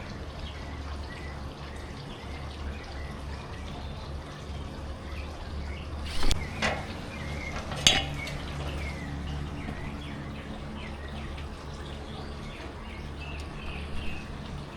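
Metal clinking and two sharp knocks about six and eight seconds in as a screen is fitted back onto a rooftop dryer vent, over a steady low hum.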